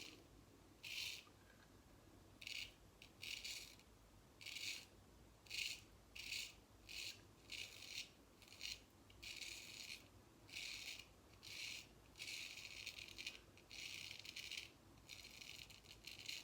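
Japanese frameback straight razor scraping through lathered stubble in a series of short strokes, each a brief rasp. The strokes come closer together and run longer in the second half.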